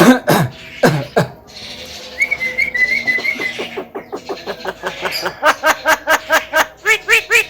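Javan myna calling: a few sharp downward-sweeping notes, a short warbled whistle, then a fast run of repeated notes, about four a second, that grows louder toward the end.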